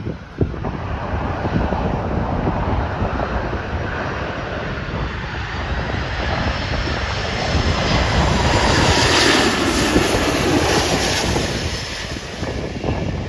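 Southwest Airlines Boeing 737 MAX 8 on its landing arrival, its CFM LEAP-1B jet engines rushing louder as it passes, loudest about nine to eleven seconds in, then easing off.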